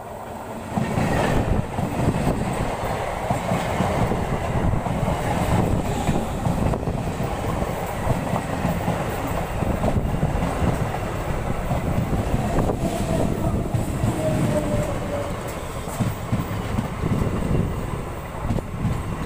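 Electric multiple unit (EMU) local train passing close by at track level: a steady rumble with the wheels clattering over the rail joints, starting loud about a second in as the front reaches the spot. A faint wheel squeal comes and goes around the middle.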